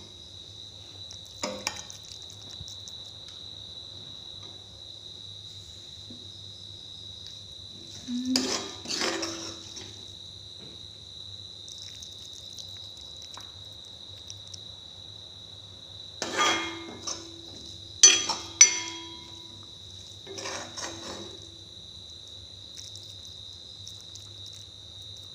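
Spoon or spatula clattering and scraping against a metal kadai and a bowl as noodles are served out, in several separate bursts of clinks with pauses between, two sharp ringing clinks the loudest. A steady high cricket chirring runs underneath.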